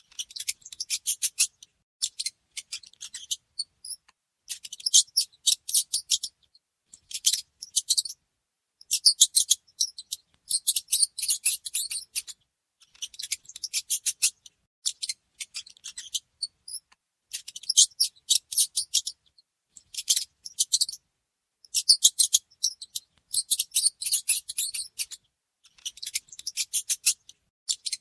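Mice making rapid, high-pitched scratchy clicking in repeated bursts of one to two seconds, with short silences between them.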